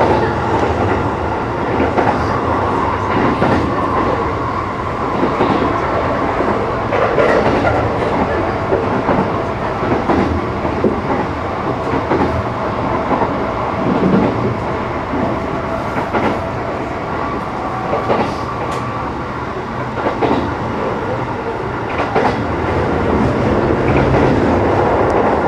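Sanyo Electric Railway 6000 series electric train running, heard inside an unpowered trailer car: a steady rumble of wheels on rail with scattered rail-joint clicks.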